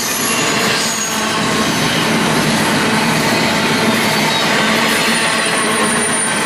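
A freight train's cars rolling past at speed: steady steel-wheel rumble and rail noise, with a thin high wheel squeal near the end.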